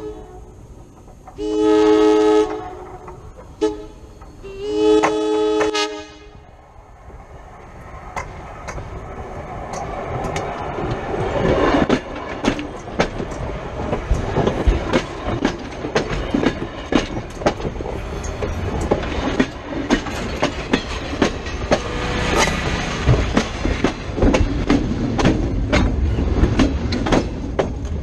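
ALCO/MLW C424 diesel locomotive's horn blowing: the tail of one long blast, then a long, a short and a long blast, the grade-crossing signal. Then the train rolls over the track with a rising rumble and rapid clicking of wheels on the rails, and a deeper rumble grows near the end.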